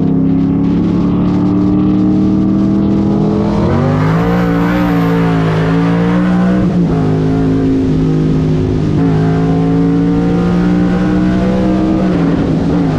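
Car engine running loud and steady, its pitch holding level and then stepping up or down a little a few times as speed changes.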